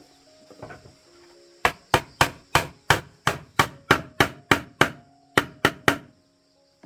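A quick, even run of about fifteen sharp strikes on wood, roughly three a second, starting about a second and a half in and stopping suddenly near the end, over a steady high insect drone.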